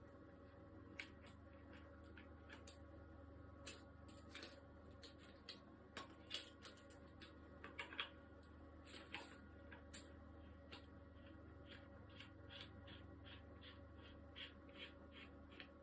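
Faint clicks and light scrapes of shower fittings being handled and screwed together by hand. In the second half they become a run of small, fairly even ticks, about three a second, over a steady low hum.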